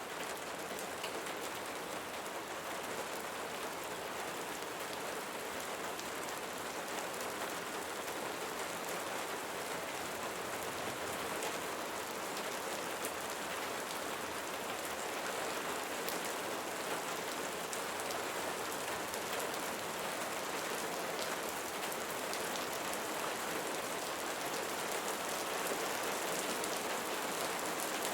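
Steady rain falling, an even hiss dotted with many small drop ticks, growing slightly louder toward the end.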